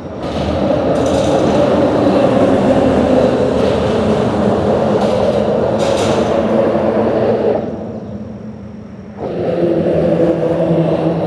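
Steady, loud rumble of vehicle noise. It fades down about three-quarters of the way through, then comes back abruptly.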